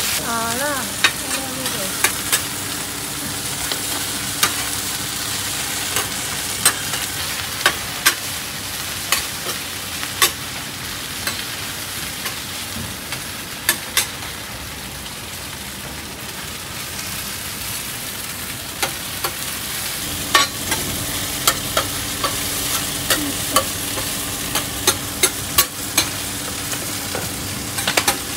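Oyster omelette sizzling as it fries in a wide black pan, with metal spatulas scraping, tapping and clinking against the pan at irregular intervals while it is turned and chopped.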